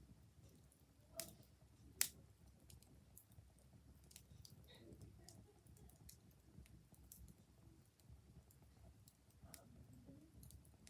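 Fire crackling quietly with scattered, irregular pops, the two sharpest about a second and two seconds in, over a low steady rumble.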